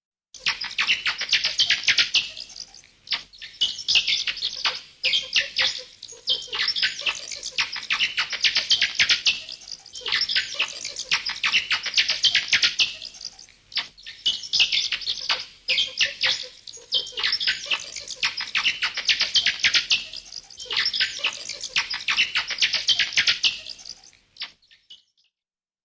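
Bats chattering: rapid, high-pitched squeaks and clicks in dense bursts of two to three seconds, with short lulls between them, stopping shortly before the end.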